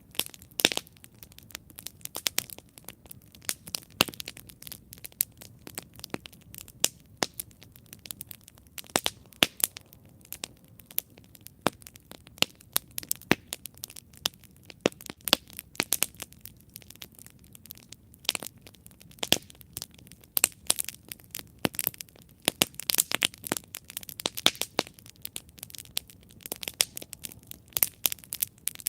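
Wood campfire burning with irregular crackles and sharp pops over a soft low rustle of flame, busier in the second half.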